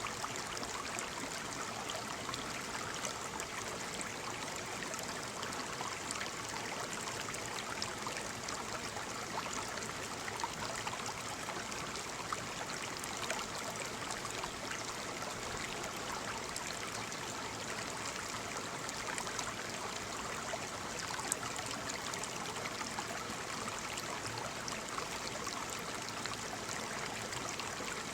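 Waterfall: a steady rush of falling water with fine splashing and trickling.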